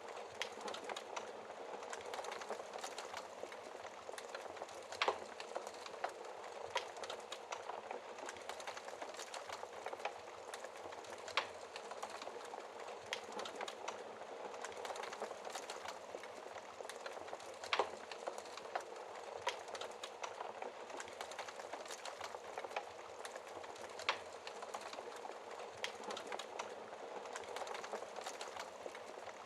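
Wood fire crackling in a fireplace: a steady hiss of small crackles with a sharp louder pop every few seconds.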